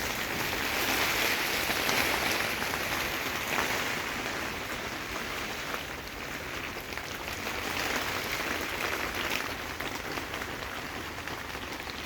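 Steady hiss of rain falling, with faint scattered ticks of drops.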